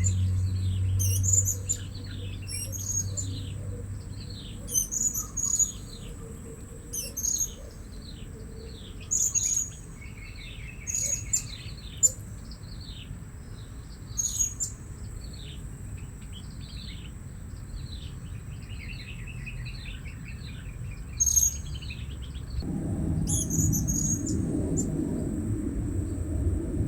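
Blue-crowned hanging parrots calling: shrill, high chirps repeated every second or two over a run of quick falling notes, with a short rapid trill twice. A low rumble sets in near the end.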